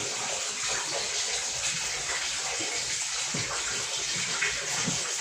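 Water running steadily with a continuous splashing rush, like a stream from a tap or hose into a tub.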